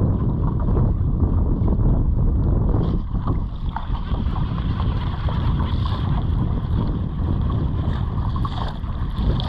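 Wind buffeting the microphone on a small open boat on the lake, a dense steady rumble. A faint steady high whine comes in about three and a half seconds in.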